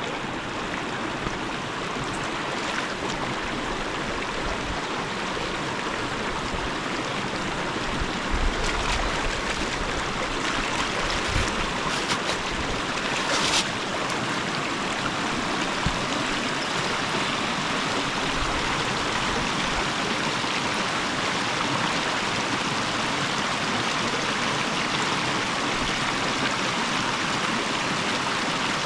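Steady rush of flowing river water, with a few short knocks near the middle.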